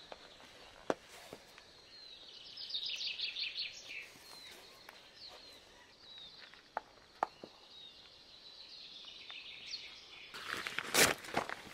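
Bird song in native bush: a quick run of high notes sliding down in pitch two to four seconds in, then scattered short chirps, with a few isolated snaps. Near the end, footsteps crunch on the forest track.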